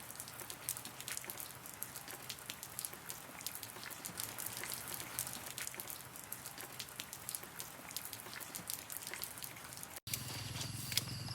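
Raindrops pattering: many irregular small ticks of drops striking a surface over a light hiss of rain.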